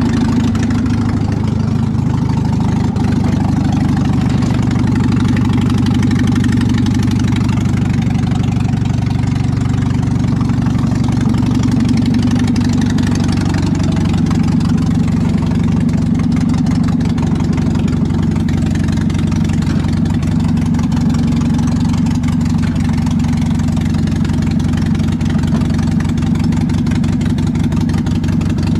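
Cold carbureted engine running on its choke, steady with a couple of brief small rises in speed.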